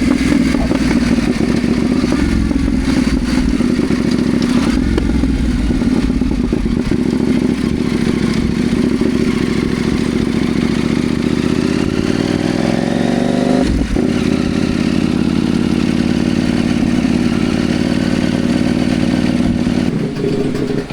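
CFMoto Ibex 800T motorcycle engine running under way. The pitch climbs a little past halfway, then breaks off briefly in a gear change and settles to a steady run.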